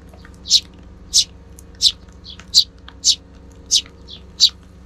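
Eurasian tree sparrows chirping: short, high, loud chirps repeated about every two thirds of a second, with fainter chirps in between.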